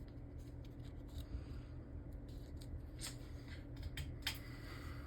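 Hands handling a Beyblade sticker sheet and small plastic parts: a few faint rustles and light clicks, mostly in the second half, over a steady low hum.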